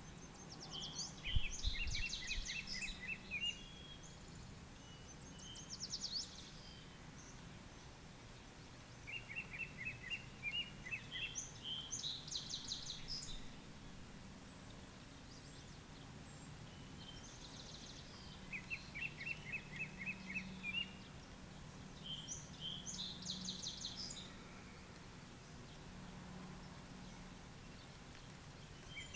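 A songbird singing short phrases of rapid trilled notes, repeated every few seconds, over a faint steady low hum. A single low thump comes about a second in.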